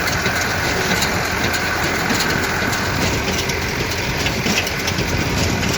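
A vehicle engine running steadily, with light rattling clicks over it.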